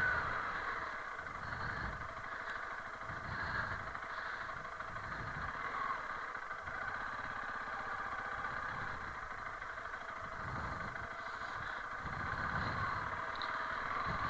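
Honda CRF300L Rally's single-cylinder four-stroke engine running steadily at low revs.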